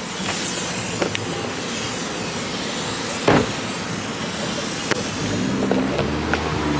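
Steady machine and traffic noise at a self-serve car wash, with a few sharp clicks and a brief whoosh about three seconds in.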